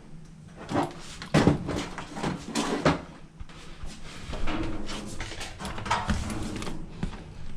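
Frigidaire dryer being tested after a part swap: irregular knocks and clunks over a low steady hum.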